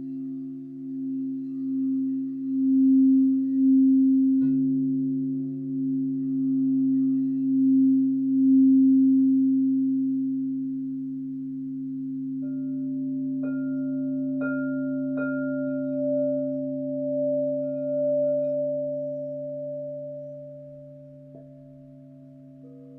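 Several crystal singing bowls ringing together in long, steady, pure tones, one swelling and pulsing in loudness through the first half. A higher bowl comes in a little past halfway and is struck lightly three times, and another tone joins near the end.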